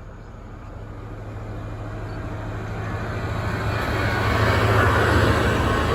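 A train approaching on the line, its rolling noise and low hum growing steadily louder to a peak about five seconds in.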